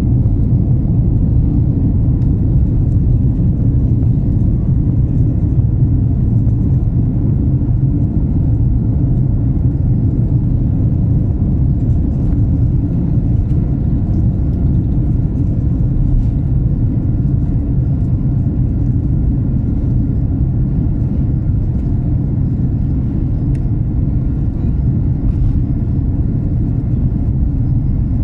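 Steady low rumble of an airliner's jet engines and airflow, heard inside the passenger cabin, with a faint steady whine over it.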